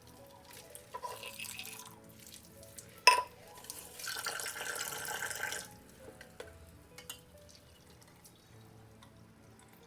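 Water running from a tap into a sink for about a second and a half, just after a sharp clink. A shorter, softer splash of water comes earlier, with a few small ticks and drips.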